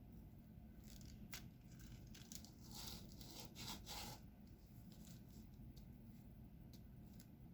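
Faint diamond-painting handling sounds: scattered light clicks and taps, with a short crinkly, tearing-like rustle about three seconds in.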